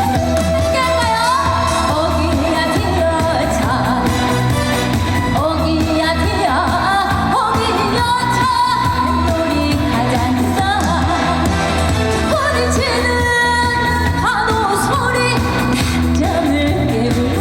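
Trot song performed live on stage: a female singer over an amplified backing track with a steady bass beat.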